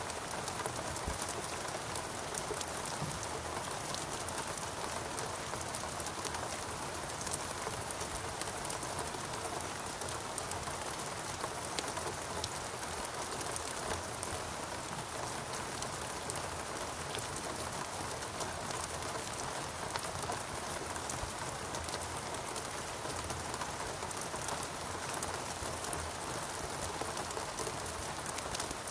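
Steady rain falling in a rainforest, an even hiss of rainfall with many individual drops pattering on leaves and surfaces.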